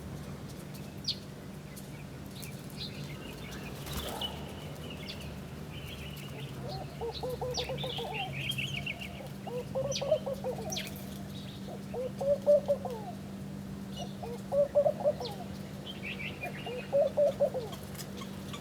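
Small birds chirping, joined about a third of the way in by a lower call of a few quick notes that rises and falls and repeats about every two seconds, over a steady low hum.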